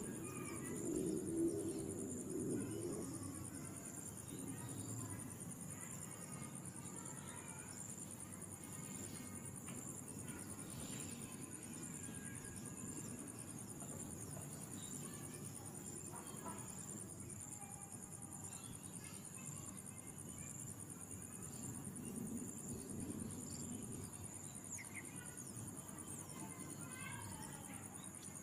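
Insects, crickets or similar, trilling steadily in a high, evenly pulsing chorus, over a low rumble that is loudest about a second in.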